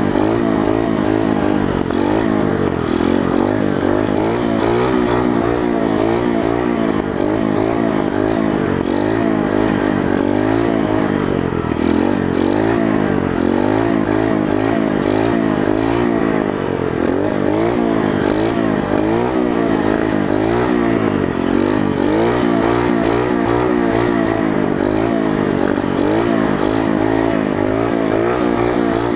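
Coolster 125 pit bike's single-cylinder four-stroke engine in first gear, its revs rising and falling over and over as the throttle is worked to hold slow wheelies.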